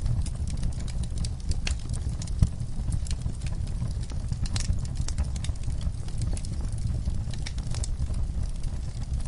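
Campfire burning: a steady low rumble of flames under irregular sharp crackles and pops of burning wood.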